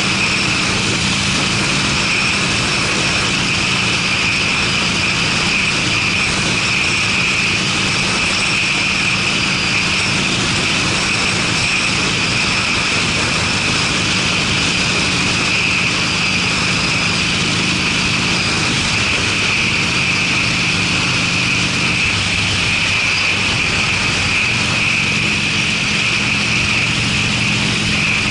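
Harley-Davidson Sportster's V-twin running at a steady road speed through Screamin' Eagle aftermarket mufflers, a deep even exhaust note under a steady rush of wind and road noise.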